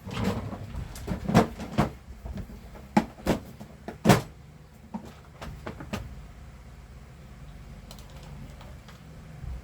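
Small plastic and metal parts of a handheld vacuum's motor brush assembly being handled and fitted: a run of sharp clicks and knocks, densest in the first six seconds, then a faint steady low rumble.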